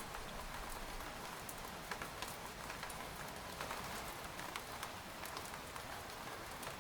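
Steady rain falling on a tent, a constant hiss with many separate drops ticking sharply on the fabric.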